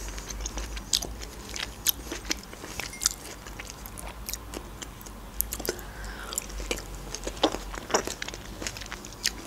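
A person chewing kiwi slices close to the microphone: irregular sharp mouth clicks and smacks, a few a second.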